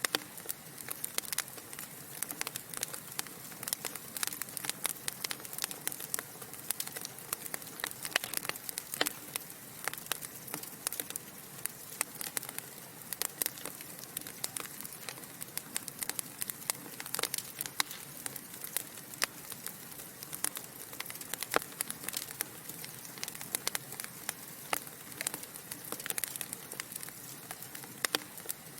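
Wood fire burning in a fireplace: a steady soft hiss with many sharp crackles and pops of burning logs at irregular intervals.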